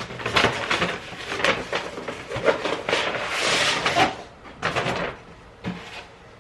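Rustling and light knocks of a takeout delivery bag and its packaging being opened and handled, with a longer papery rustle a little past the middle.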